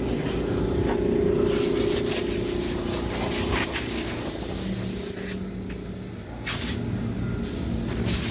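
A steady mechanical hum from a running motor, broken several times by short bursts of hissing.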